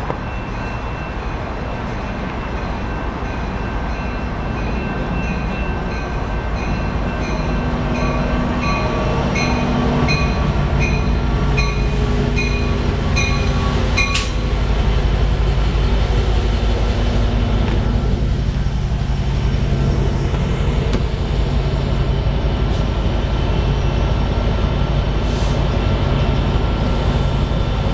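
A train goes by close at hand: a low diesel rumble builds over the first half and then holds loud. Over it a bell rings steadily, about twice a second, and stops suddenly about halfway through.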